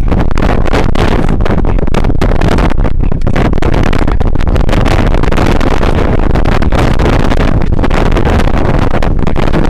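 Loud, steady rumble of a car heard from inside the cabin, with the driver's window open.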